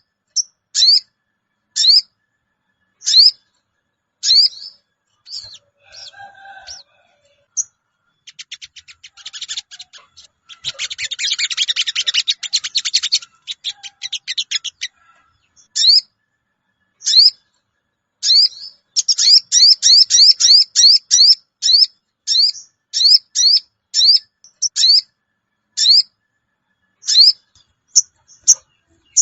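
Sogon bird calling: a series of short, sharp rising chirps ('cuwit cuwit'), breaking into a fast chattering trill about a third of the way in. This is the sogon's call as used to lure wild birds for trapping.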